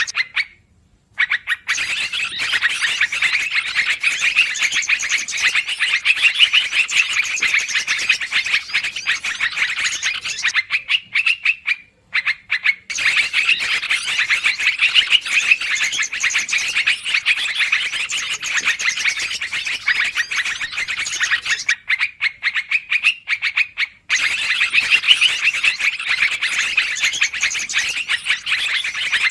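Many yellow-vented bulbuls (trucukan) calling in a busy, continuous chatter, played as a bird-trapping lure recording. The calling stops for a second or two roughly every eleven seconds, as the track loops.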